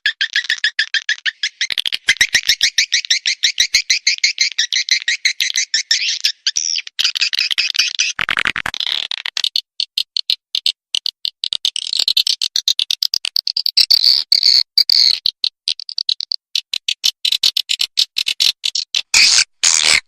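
Swiftlet lure recording: rapid, dense chattering chirps of swiftlets, the kind of call played from swiftlet houses to draw the birds in to roost and nest. A short, harsher buzzy burst comes about eight seconds in, and the chirps turn into sparser, separate ticks near the end.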